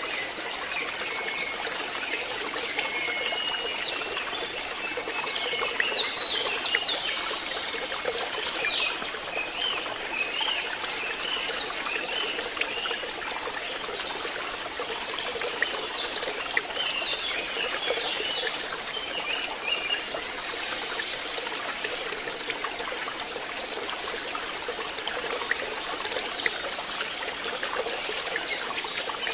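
Water trickling steadily into a fishpond, with high chirping calls over it during the first two-thirds.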